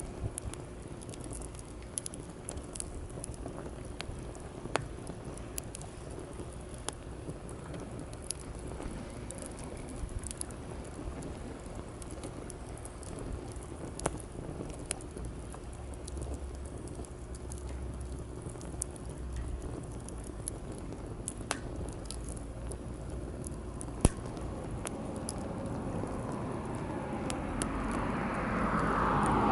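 Wood fire crackling, with frequent small pops and one louder snap, over a steady wash of sea waves. From about 25 s in, a passing vehicle grows steadily louder toward the end.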